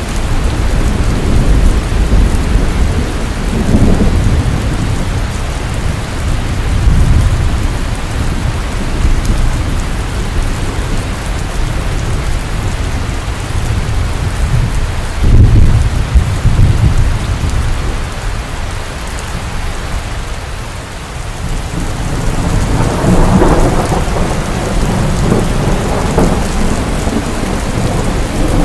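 Steady heavy rain falling, with low thunder rumbling several times; the loudest rumble comes about halfway through.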